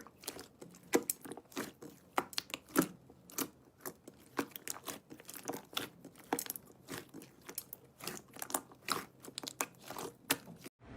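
Slime being squeezed and poked by hand, giving irregular small sticky clicks and pops, several a second, which cut off abruptly near the end.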